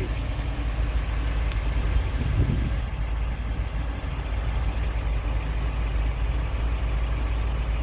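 1964 Chevrolet Corvette Stingray's 327 V8 idling steadily.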